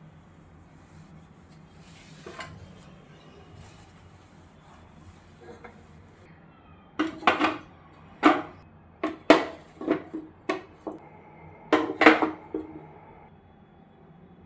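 Dishes and cutlery being handled. About ten sharp clinks and knocks come in a cluster from about halfway through, with the loudest ones near the end.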